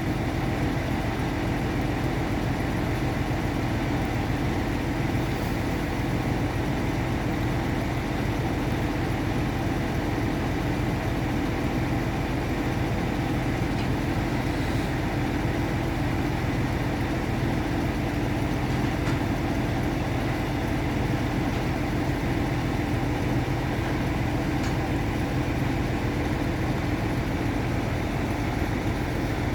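Engine of a boat lift running at a steady idle while it lowers a boat on straps.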